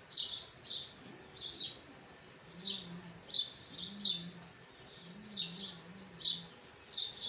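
Small birds chirping nearby: short, sharp, falling chirps repeated about twice a second.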